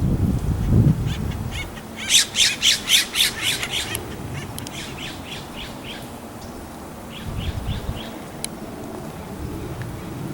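A bird giving a rapid series of harsh calls, about five a second, loudest in a two-second burst and then trailing off in weaker runs. A low rumble at the start and again about seven seconds in.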